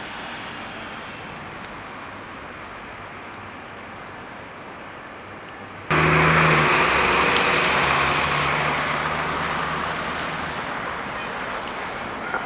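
Steady city traffic noise. About halfway through it jumps abruptly to a much louder engine running close by, a bus, which fades gradually over the following seconds.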